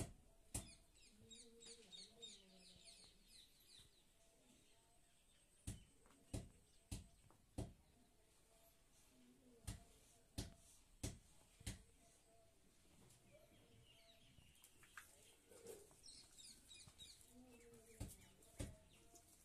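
Faint bird chirping in quick runs of short high notes, twice, with a few faint low clucks. Scattered sharp clicks and knocks come through, some in quick runs of three or four.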